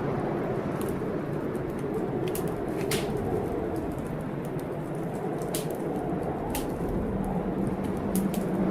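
Wood fire crackling, with sharp pops every second or so, over a steady hiss of storm rain.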